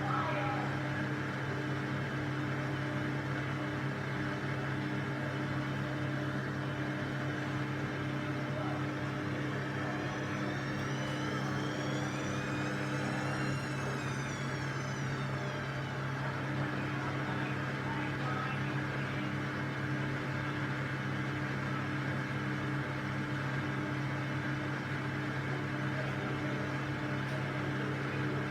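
Washing machine running with a steady motor hum. A faint high whine rises and then falls in pitch for a few seconds midway.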